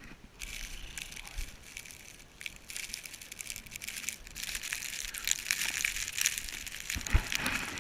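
Footsteps crunching through snow: a dense, crisp crackling that grows thicker after the first couple of seconds, with a low thump near the end.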